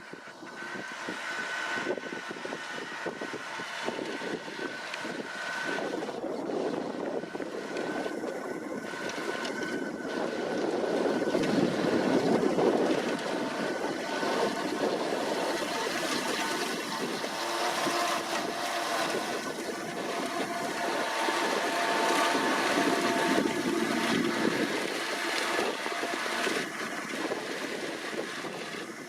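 New Holland T7.290 tractor running under load while pulling a KUHN hay tedder. The sound swells loudest about twelve seconds in and rises again later.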